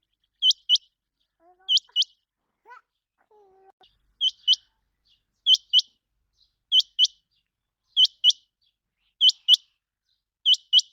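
Common quail calling: a sharp, high double note repeated about every second and a quarter, with a longer pause after the first two.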